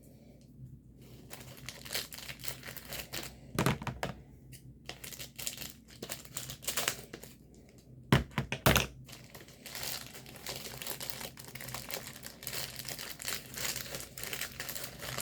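Packaging crinkling and rustling as it is handled and opened by hand. There are louder bumps about four seconds in and twice around eight seconds in.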